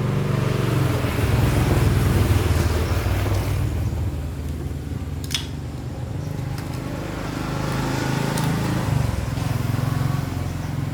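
A small petrol engine running, its speed rising and falling, loudest in the first few seconds. There is a sharp click about five seconds in.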